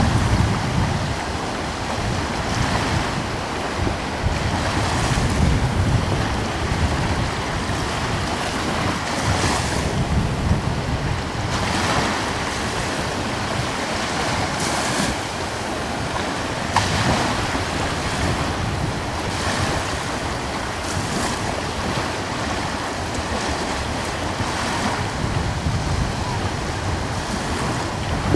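Gentle ocean waves washing in and out in soft, uneven surges, with a light breeze blowing on the microphone.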